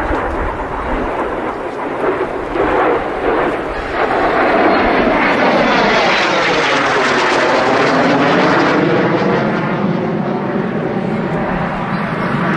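Kawasaki T-4 jet engine roar as the aircraft make a pass, building about four seconds in with a sweeping change in pitch through the middle and easing toward the end.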